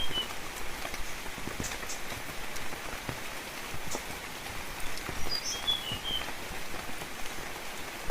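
Steady rain falling on foliage, with individual drops ticking. A bird gives a brief chirping phrase about five and a half seconds in.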